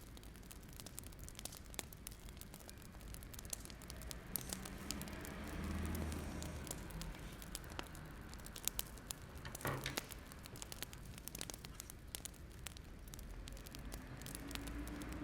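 Wood fire crackling, with frequent sharp pops over a soft steady hiss of the flames.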